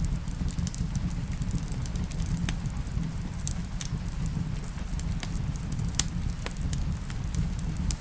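Wood fire crackling in a fireplace: scattered sharp pops and snaps over a steady low rumble, with rain behind it.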